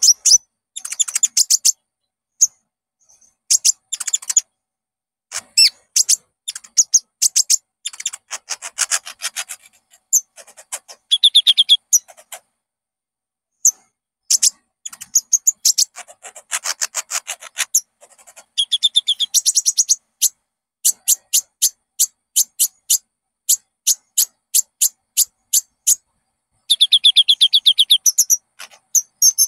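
Brown-throated sunbird (kolibri ninja, "konin") singing: fast trains of sharp, high chirping notes delivered in phrases of one to a few seconds, with brief silent gaps between them.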